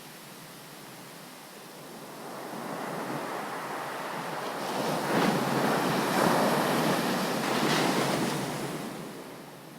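Ocean waves breaking on a beach: the surf builds over a few seconds, peaks in the middle as a wave crashes and washes in, then dies away near the end.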